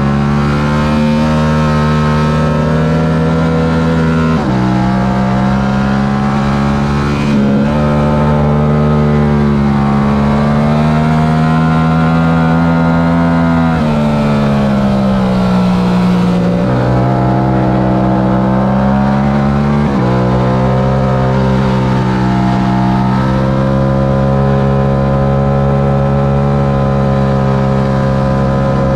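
Stock Yamaha R7's 689 cc parallel-twin engine at racing pace, revving up through the gears. Its pitch climbs and drops suddenly at each upshift, about 4 seconds in, again about 7 seconds in and about 20 seconds in. In the middle the engine note falls as the bike slows for a corner.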